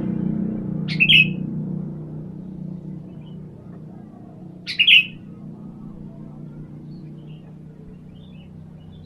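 Sooty-headed bulbul giving two short, sharp calls about four seconds apart, over a low hum that fades away over the first few seconds.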